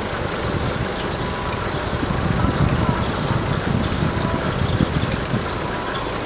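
Small birds chirping, short high chirps several times a second, over a steady low rumble of street noise.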